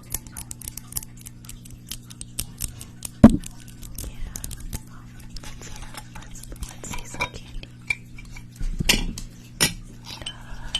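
Light tapping and clinking of small hard objects, like cutlery or dishes being handled, with a sharper knock about three seconds in and two more near the end, over a steady low hum.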